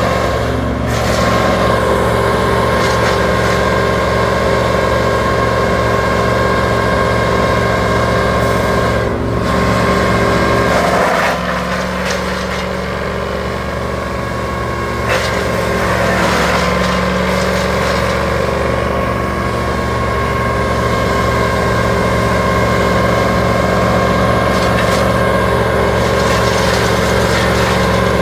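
A large engine running steadily. Its note shifts and it runs a little quieter for a few seconds about eleven seconds in.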